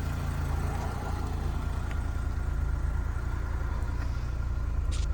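1992 Vauxhall Cavalier's 2.0-litre eight-valve C20NE engine idling steadily, heard from inside the car.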